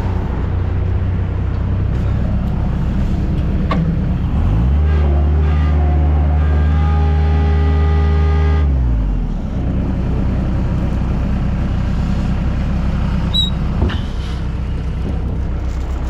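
Engine running steadily at idle, revved up about four seconds in, held there for a few seconds, then dropped back to idle. The machine is being left running for fear it won't start again.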